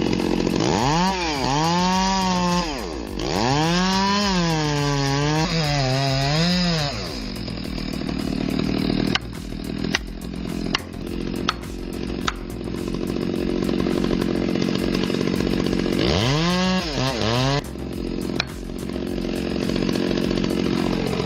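Chainsaw cutting, its engine revving up and dropping back in pitch in several spells, with steadier running between. A few sharp clicks or knocks about ten seconds in.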